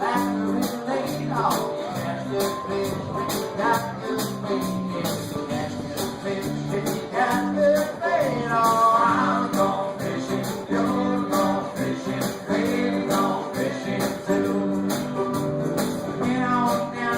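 Live folk band playing a country-blues song: singing over instruments with a steady beat.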